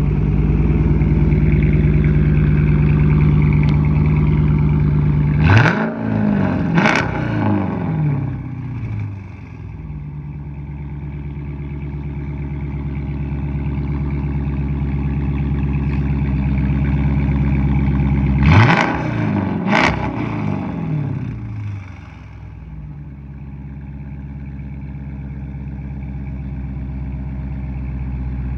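Mopar car engine idling with a steady low rumble, revved in two pairs of quick throttle blips, about six and about nineteen seconds in. Each blip rises sharply and falls back to idle.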